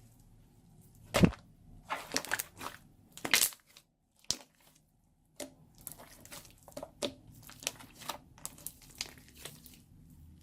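Slime and a plastic piping bag being squeezed and handled, giving an irregular run of crinkling, crackling pops. The loudest cluster comes in the first few seconds, then a brief drop to silence, then lighter crackles resume.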